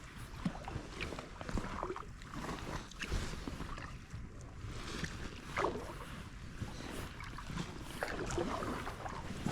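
Kayak paddle dipping and splashing in lake water, stroke after stroke at an uneven pace every second or two, over a steady low rumble.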